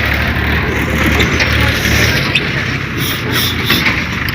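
Tractor engine running with a steady low rumble and mechanical rattling, with a few clicks and knocks over it.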